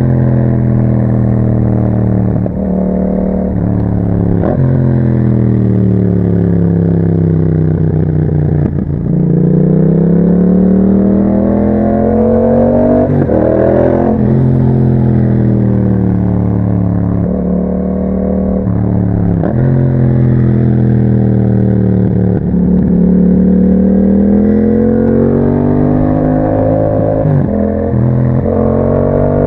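2021 Yamaha MT-07's parallel-twin engine through an Akrapovic exhaust while riding. Its revs repeatedly climb and drop, with short breaks between climbs that fit gear changes.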